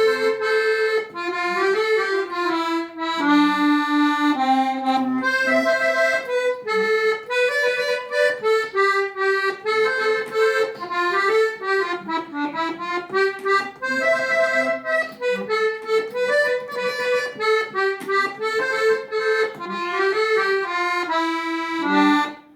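Accordion music: a lively melody of quick notes over bass notes, with a held chord near the end.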